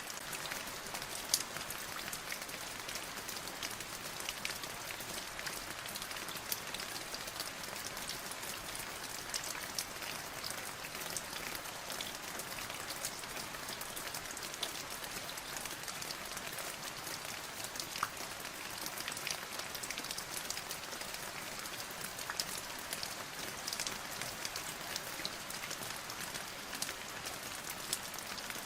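Steady rain falling on a surface, a dense hiss with many individual drops pattering and ticking sharply throughout.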